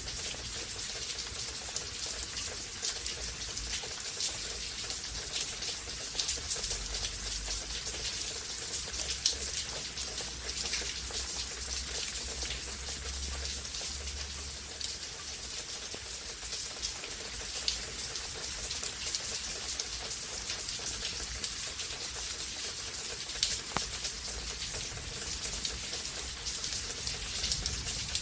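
Steady rain falling during a rain storm, a continuous hiss dotted with many small ticks of individual drops striking nearby surfaces.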